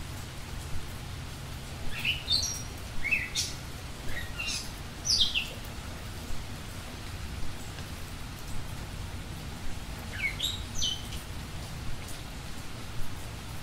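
Bird chirps: two short runs of high, quick notes falling in pitch, one about two seconds in and another near ten seconds, over a steady hiss and a low hum.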